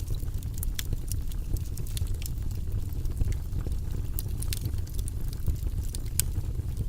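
Wood fire burning in a fireplace: steady low flame noise with irregular sharp crackles and pops, a few of them louder (about a second in, around four seconds and near the end).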